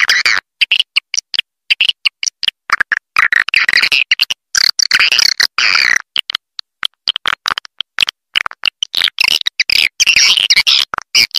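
Swiftlet lure-call recording: edible-nest swiftlet twittering chirps, edited into bursts of varying length that cut off abruptly into dead silence.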